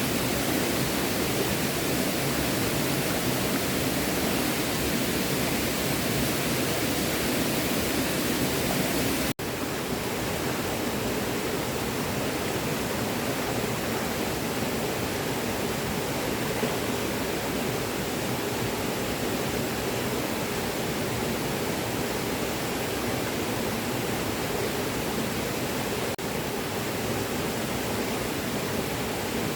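Small stream running steadily over stones, with a brief dropout about a third of the way in.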